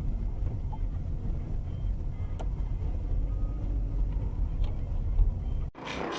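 Low, steady rumble of a car driving, with a few faint clicks, cutting off abruptly near the end into electronic music.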